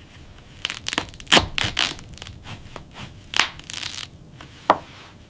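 Irregular crunching: a quick cluster of crunches in the first two seconds, then single ones about three and a half and almost five seconds in.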